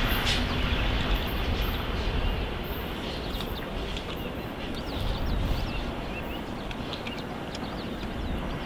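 Low rumble of a double-deck electric passenger train moving away and fading, with small birds chirping from about three seconds in.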